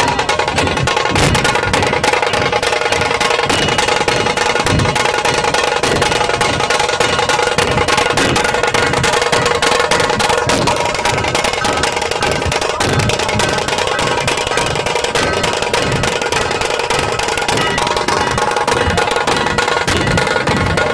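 Nashik dhol drumming: big barrel dhols beaten with deep, booming bass strokes under a fast, rolling stream of sharper strokes, loud and unbroken.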